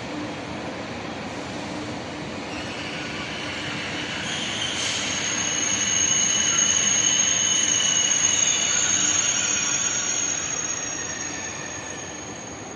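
High-speed train running through the station, growing louder, at its loudest in the middle, then fading near the end. A high, steady metallic squeal sits over it while it is loudest.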